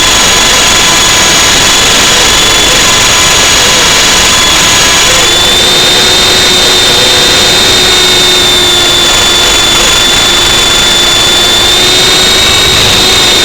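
F45 radio-controlled helicopter flying: a steady high-pitched electric motor and rotor whine whose pitch shifts slightly a few times, over loud wind noise on the microphone.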